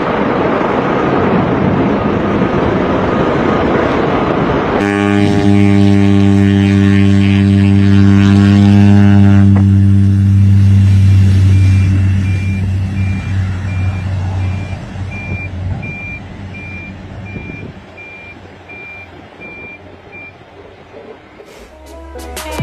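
Loud rushing aircraft noise, then a propeller plane's engine drone held at a steady pitch that slowly fades away. While it fades, a run of high, evenly spaced beeps, about two a second, sounds for several seconds, and electronic music comes in right at the end.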